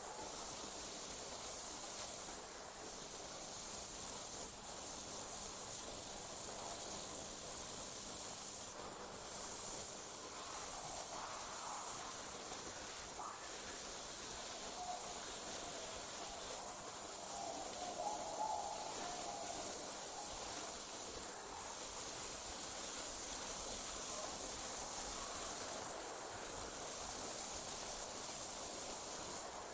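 Crickets trilling in a steady, very high-pitched night chorus, broken by short pauses every few seconds.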